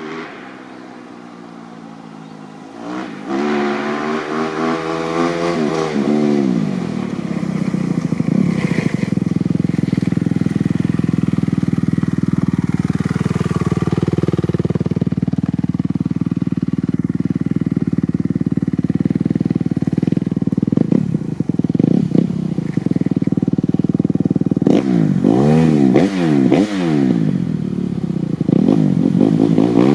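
Kawasaki KX250F single-cylinder four-stroke dirt bike engine through a full FMF 4.1 RCT exhaust, revved up hard and held at high revs. Its pitch swings up and down a few seconds in, dips briefly and recovers midway, and rises and falls rapidly over the last few seconds.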